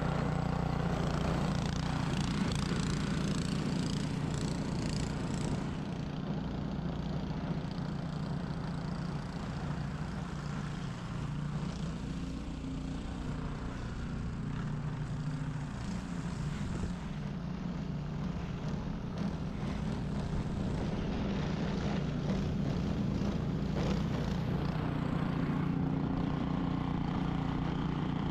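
Ariens 21-inch professional snow blower's engine running steadily while it clears snow, its pitch and level dipping slightly in the middle and rising again.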